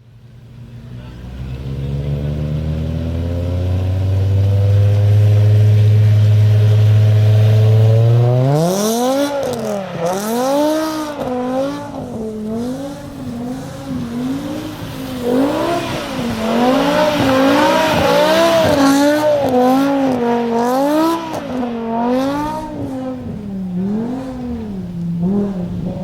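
BMW M5's 5.0-litre V10 through a Botter aftermarket exhaust, with a steady note that grows louder and slowly rises for about eight seconds. Then the revs swing up and down in waves about once a second as the car is drifted, with tyres screeching at times.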